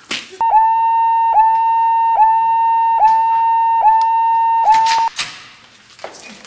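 Loud electronic evacuation alarm: one steady high tone with a brief dip in pitch about once a second. It sounds for nearly five seconds, then cuts off suddenly.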